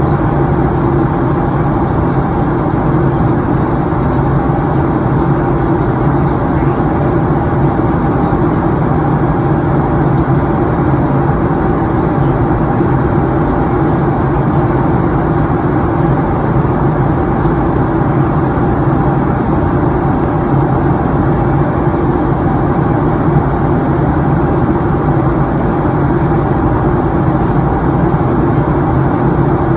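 Steady cabin drone inside a Boeing 737-900ER in flight: rushing airflow over the fuselage and the hum of its CFM56-7B engines, even and unchanging throughout.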